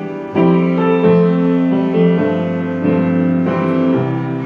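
Piano or keyboard playing sustained chords that change about once a second: the introduction to a song that is sung just after.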